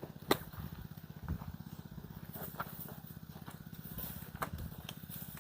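A steady low motor hum with a fast, even pulse, broken by a few sharp clicks and knocks.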